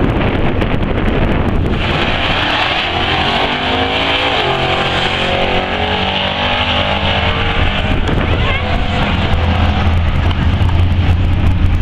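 LS1 V8 truck engine running, its pitch sweeping down and back up about four seconds in, then settling into a steady low drone. Wind noise on the microphone comes first.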